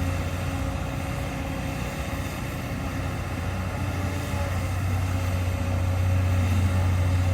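Heavy diesel engine running steadily with a deep hum and a thin, steady higher tone, growing a little louder about five seconds in.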